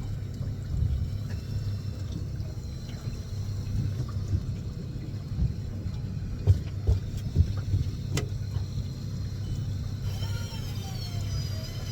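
Fishing boat's engine running with a steady low rumble, with a few sharp knocks about two-thirds of the way through. Music comes in near the end.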